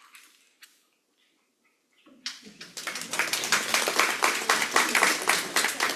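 A congregation applauding, starting about two seconds in.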